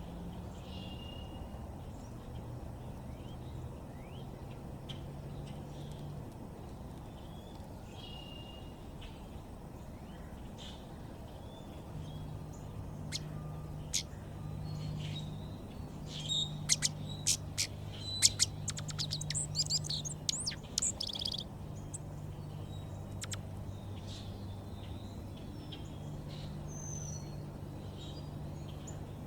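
Backyard songbirds chirping and calling in short notes, with a quick run of sharp, rapid chirps a little past halfway, over a faint low steady hum.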